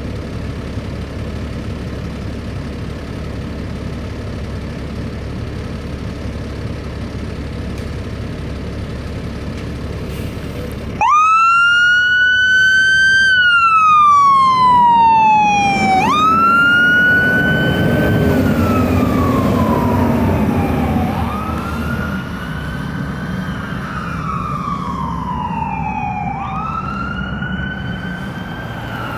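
A fire engine's diesel engine runs with a low rumble. About eleven seconds in, its siren switches on suddenly and wails, rising quickly and falling slowly about every five seconds. It is loudest for the first few cycles.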